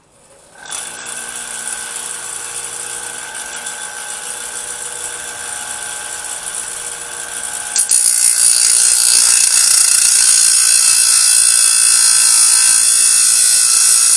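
Electric power tool cutting a steel blade blank: the motor starts under a second in and runs with a steady whine, then about eight seconds in it bites into the steel and becomes louder with a harsh high hiss.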